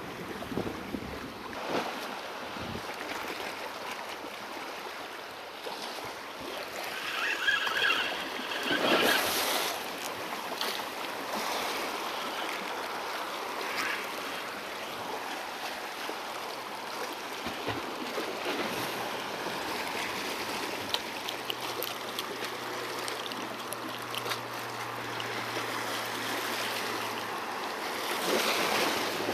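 Sea waves washing against the rocks, with some wind on the microphone and a few louder surges. A steady low hum comes in about halfway through.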